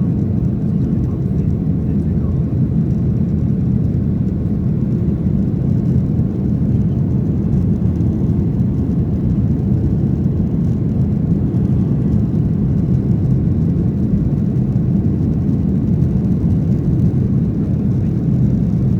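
Cabin noise inside a Boeing 737-800 heard from a window seat: its CFM56-7B jet engines running, giving a steady low rumble with no change in level.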